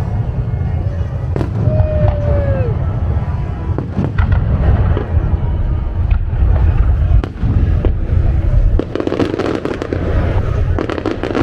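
Fireworks display: a continuous low rumble with scattered sharp bangs. A short falling whistle comes about two seconds in, and a burst of rapid crackling about nine seconds in.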